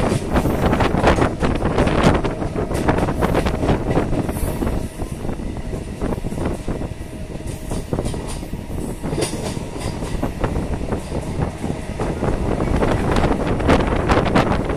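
Suburban electric local train running along the track: a steady rumble with wheels clicking over the rail joints and a few brief high wheel squeals.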